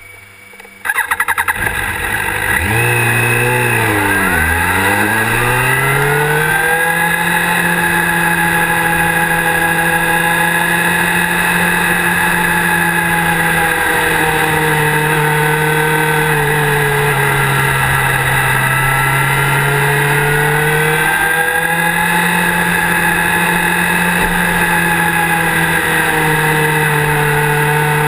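Motorcycle engine heard from the rider's seat. After a brief clatter about a second in, the engine note dips and then climbs as the bike pulls away, then holds a fairly steady pitch with small rises and drops while cruising.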